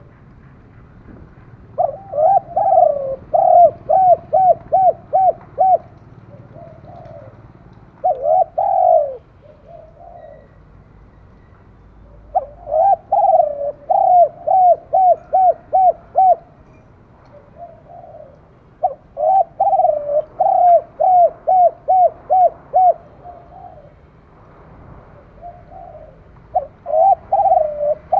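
Spotted dove cooing in repeated phrases, about four in all: each opens with one or two longer coos and runs on into a quick series of short, even notes, with pauses of a few seconds between phrases.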